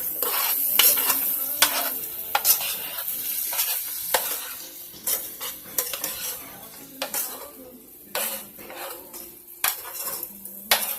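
Food sizzling in a frying pan while a cooking utensil stirs it, scraping and knocking against the pan about a dozen times at irregular intervals. The sizzle slowly quietens toward the end.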